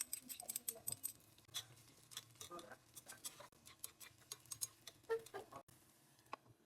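Light, irregular clicks and taps of utensils against dishes or cookware, several a second, a few with a short ring; the frying sizzle has stopped.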